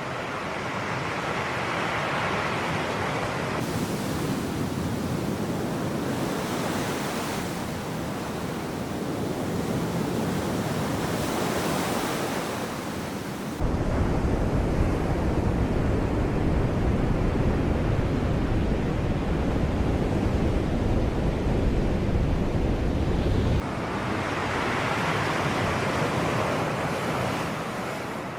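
Sea waves surging and washing in, a continuous rush of surf that swells near the start and again near the end. About fourteen seconds in, a heavy low rumble starts suddenly over the surf and cuts off about ten seconds later.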